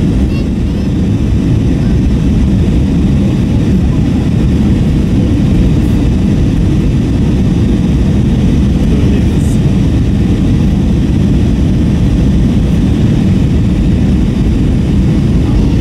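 Steady cabin noise of an Airbus A321 in flight, heard from a seat inside the cabin: a dense, even low rumble of airflow and IAE V2500 turbofan drone, with a couple of faint ticks in the middle.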